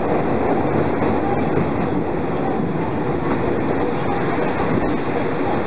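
Nankai 2000 series electric train moving alongside a station platform: a steady, loud noise of its wheels running on the rails.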